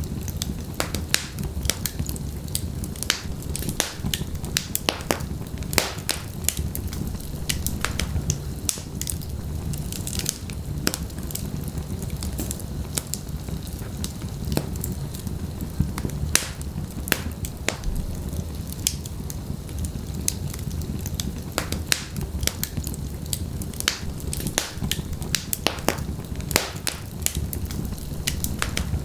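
Wood fire in a fireplace: logs burning with a steady low rumble and frequent, irregular sharp crackles and pops.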